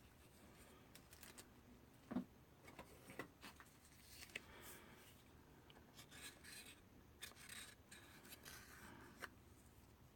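Faint, scattered clicks, taps and short scrapes of small craft items being handled on a work surface, with a sharper click about two seconds in.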